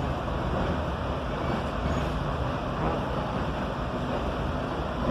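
Steady running noise inside a moving passenger rail coach: wheels rolling on the track and the car body shaking.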